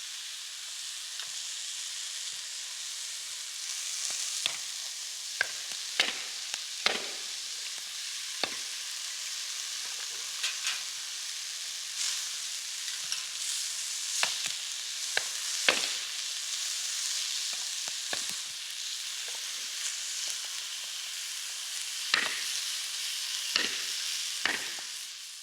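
Steak sizzling as it cooks: a steady frying hiss with scattered sharp pops and crackles.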